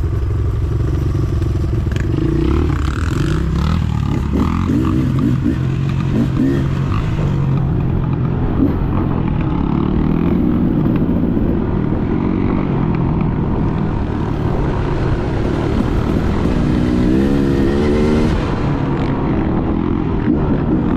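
Dirt bike engine running while riding, revs rising and falling with the throttle, with a quick run of rev changes near the end.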